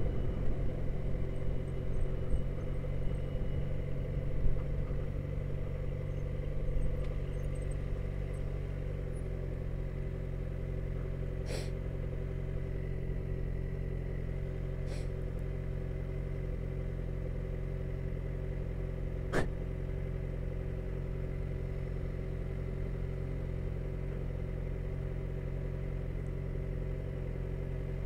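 Motorcycle engine idling steadily, with three short sharp clicks spaced a few seconds apart.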